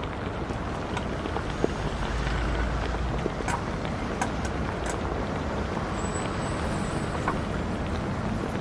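Motor vehicle running: a steady low rumble that swells briefly about two seconds in, with a few faint clicks.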